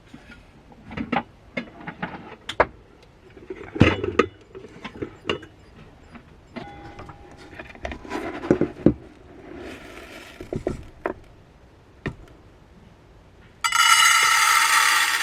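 Objects being handled in a small space: a run of scattered clicks, knocks and rattles. About a second and a half before the end, a sudden loud, steady buzzing sound with a high, many-toned hum starts up.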